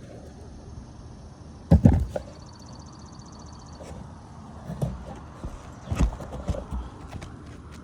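Dull knocks and scuffs on an asphalt-shingle roof, the loudest pair about two seconds in and lighter ones later.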